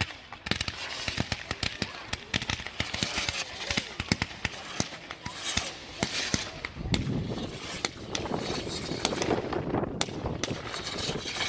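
Display fireworks going off: dense crackling and sharp pops, several a second, with a rougher rushing noise joining in from about seven seconds in.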